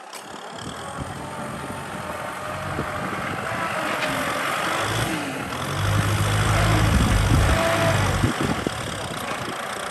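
Kubota M6040 tractor's diesel engine running. It grows steadily louder and is loudest from about six to eight seconds in, then eases off slightly.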